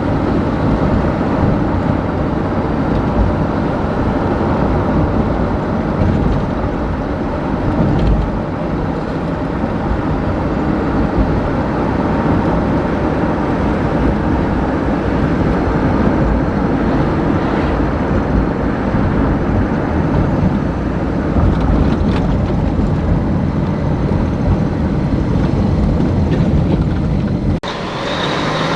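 Steady low rumble of a vehicle on the move, road and engine noise with no clear pitch. About a second before the end the sound breaks off abruptly and a different sound begins.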